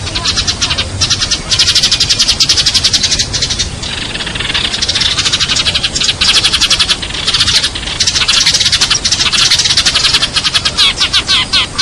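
Sparrows chirping in a loud, fast, unbroken chatter of short, high chirps, dipping only briefly now and then.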